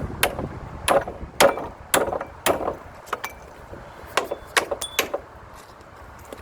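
A hammer striking wood: four heavy blows about half a second apart, then a quicker run of lighter taps, two of them with a brief metallic ring.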